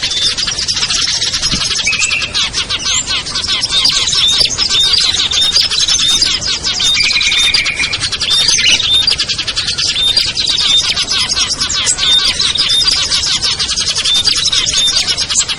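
A dense mixed chorus of small songbirds chirping and twittering at once: rapid high ticking calls with a few short, steady whistled notes. It is a bird-lure recording for drawing down wild small birds such as prinias and bulbuls.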